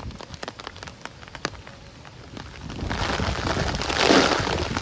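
Steady rain falling, with many individual drops ticking sharply close by. A little past halfway through, the rain hiss grows markedly louder and fuller.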